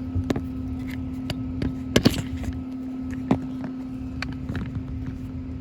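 Steady low hum of a just-started HVAC unit running, with a scatter of sharp clicks and knocks from handling gear on top, the loudest about two seconds in.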